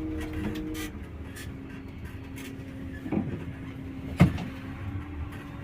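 Bus engine idling steadily, its hum settling slightly lower about a second in, with a sharp knock a little after four seconds.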